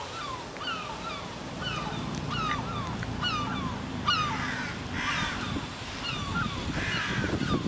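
A crowd of birds giving short, falling calls, several a second, over a low rumble.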